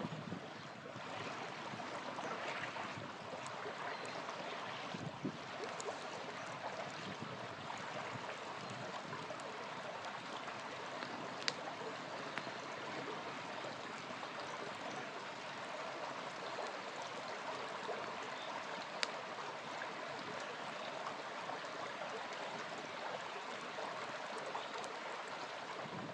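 Small river flowing steadily, with a campfire giving occasional sharp pops, the two loudest about halfway through and about three-quarters of the way in.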